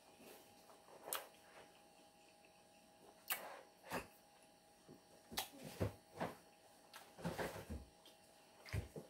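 Chewing and mouth sounds of someone eating tacos: short, faint clicks and smacks at irregular intervals.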